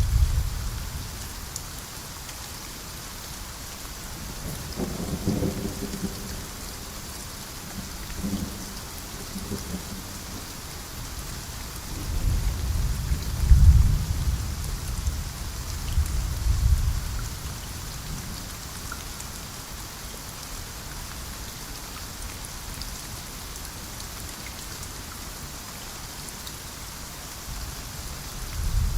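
Steady rain with several rolls of thunder. Low rumbles swell and fade a few times, with the loudest and longest one about halfway through.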